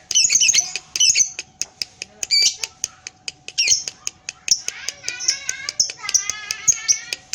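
Lovebird singing its long rapid chattering 'ngekek' song: a fast run of sharp clicking notes and high squeaky chirps, breaking into a denser trill about five seconds in.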